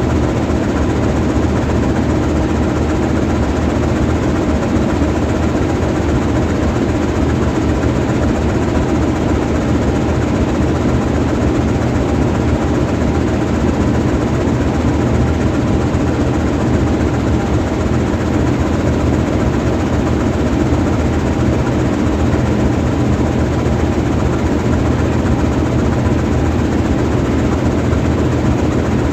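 GE U20C diesel-electric locomotive's V12 diesel engine idling steadily while the locomotive stands still, a continuous low drone that does not change.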